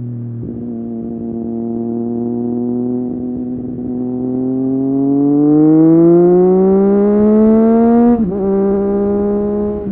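Triumph Street Triple 765 RS's three-cylinder engine through an Akrapovic exhaust, running at steady revs, then accelerating with a smoothly rising pitch for about four seconds. About eight seconds in, the pitch drops sharply at a gear change, and the engine runs on at lower, steady revs.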